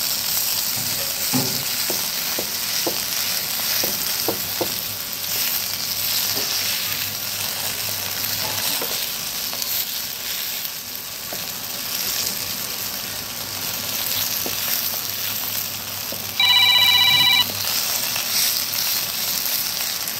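Okra frying in oil in a kadai: a steady sizzle, with a wooden spatula clicking and scraping against the pan in the first few seconds. Late on, a loud electronic beeping tone sounds for about a second.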